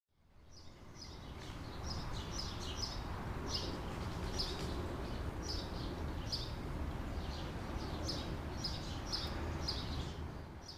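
Outdoor ambience fading in and out: a steady low background rumble with a bird giving short, high chirps, about one or two a second.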